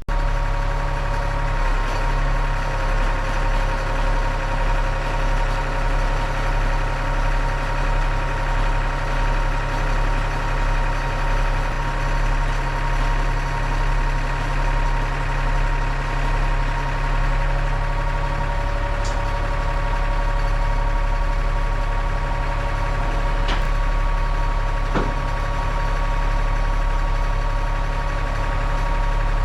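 Heavy truck's diesel engine idling steadily, with a steady whine over it and an even pulse.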